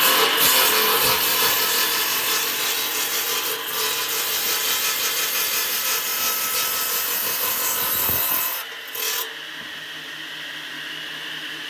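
Restored 3-in-1 woodworking machine cutting through wood, its motor running under load with a dense rasping noise. The cut ends about eight and a half seconds in, and the motor runs on more quietly.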